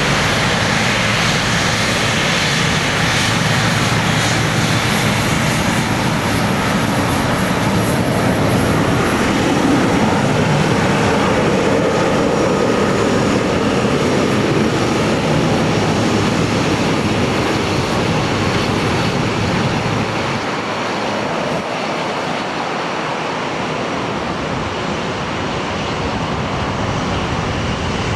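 Jet airliner taking off, a loud, steady engine rumble and roar that swells to its loudest about a third of the way through, then recedes, the deep rumble dropping away near the end.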